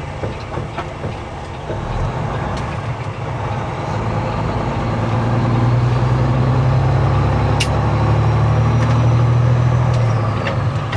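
Semi truck's diesel engine and road noise heard from inside the cab: a steady low drone that grows louder about four seconds in and then holds, with an occasional faint click.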